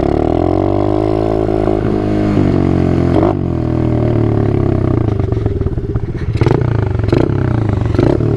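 Small single-cylinder four-stroke engine running at low revs, its pitch wavering slightly under light throttle, with a few sharp clacks near the middle and toward the end.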